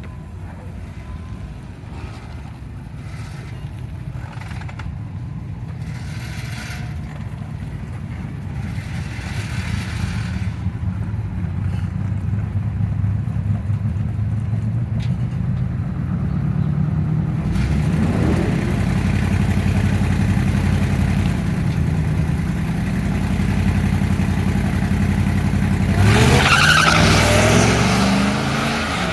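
Modified Power Wheels drag-racing truck running, its drive getting steadily louder over the first half or so, then rising sharply in pitch near the end as it accelerates.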